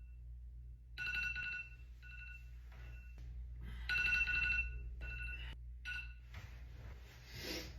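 A mobile phone ringing with an electronic ringtone: bursts of repeated high beeping tones, loudest about a second in and again about four seconds in. Near the end there is a short rustling noise.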